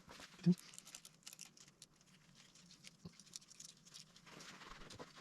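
Faint, scattered light clicks and taps of small metal drive parts, the gear set and timing chain, being handled and fitted by hand. There is one short, louder low sound about half a second in.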